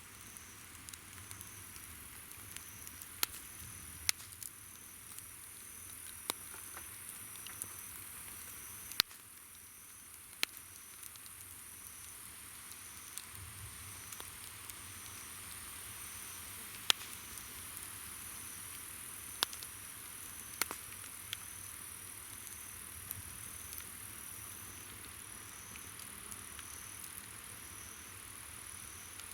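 Wood campfire crackling, with sharp pops now and then, over insects calling: one a steady high trill, another chirping in a regular pulse about once a second.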